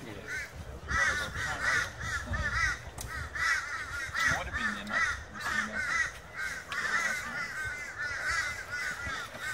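Birds calling continuously, a steady run of short repeated calls in quick groups, several birds overlapping.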